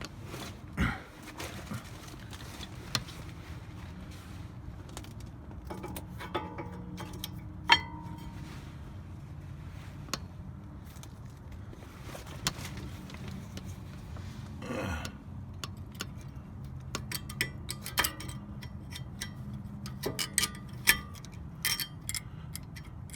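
Scattered metallic clicks and clinks of brake pads and their small metal clips and pins being handled and fitted, coming more often near the end, over a low steady hum.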